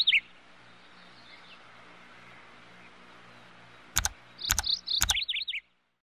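Bird chirping: a quick run of falling chirps at the start, then three sharp clicks about half a second apart and another run of chirps near the end, over a faint low hum.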